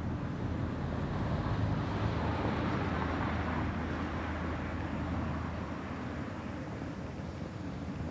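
A vehicle passing by: a steady rushing noise over a low hum that swells about two to three seconds in, then slowly fades.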